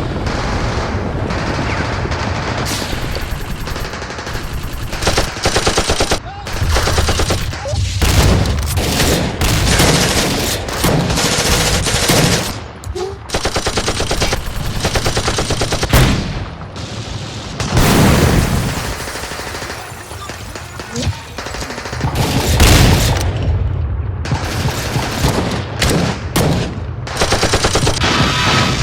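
Battle sound effects: sustained bursts of machine-gun and rifle fire in rapid succession, with a few heavier, deeper blasts mixed in.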